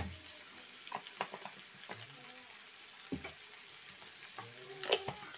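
Pumpkin curry frying in oil in a pan: a faint steady sizzle with a few scattered pops and light clicks.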